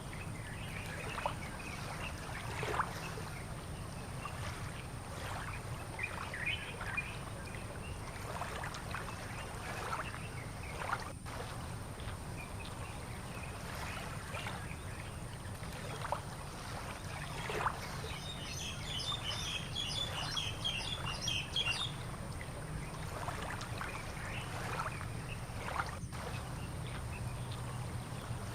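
Outdoor birdsong: scattered short chirps and calls, with one rapid high trill lasting about three seconds about two-thirds of the way through, over a steady low hum.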